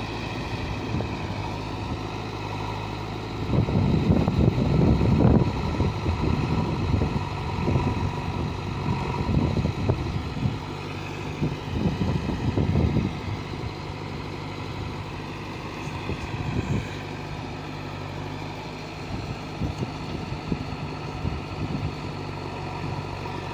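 Diesel tractor engine running steadily, with two stretches of louder, rough noise: one from about three to six seconds in and a shorter one around twelve seconds.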